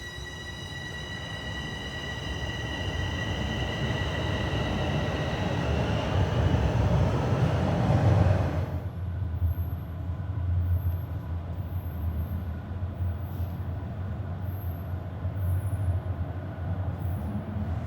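Subway train pulling away, its electric traction motors whining and the running noise growing louder for about eight seconds. It then settles into a steady low rumble of wheels on rail.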